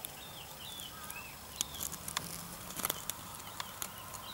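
Small birds calling with short, wavering chirps, over a few sharp clicks and a faint low hum.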